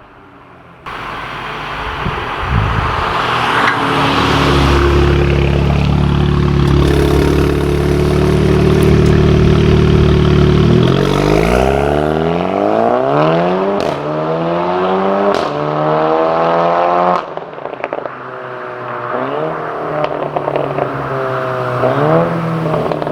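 Mk7.5 Volkswagen Golf R's turbocharged four-cylinder with an APR downpipe and valved cat-back exhaust, running at steady revs, then climbing in pitch for about six seconds under acceleration. Near the end the revs drop and come back up in several short rises and falls.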